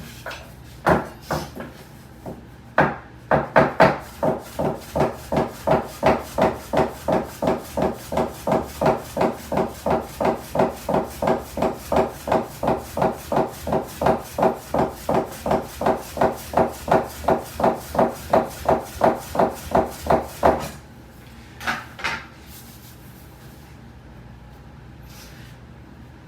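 Soba-kiri knife chopping through folded buckwheat noodle dough onto a wooden board, in a steady rhythm of about three cuts a second. A few uneven knocks come first, the cutting stops about twenty seconds in, and two more knocks follow.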